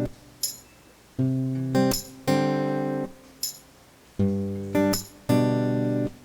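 Background music: an acoustic guitar strumming chords in a repeating pattern, a short strum followed by a longer ringing chord that fades, about every three seconds, with light percussive taps in between.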